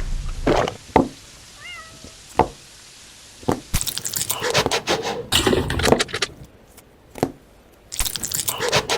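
Close-up eating sounds: irregular crunching, chewing and clicky mouth and packaging noises, with a short high-pitched meow-like cry about two seconds in.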